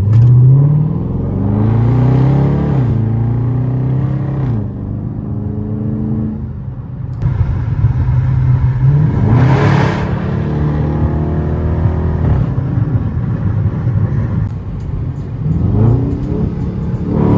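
The 5.7-litre Hemi V8 of a 2023 Dodge Charger R/T accelerating hard through the gears, its exhaust loud with the mid mufflers deleted. The pitch rises steeply right at the start, about seven seconds in and again near the end, falling back at each shift.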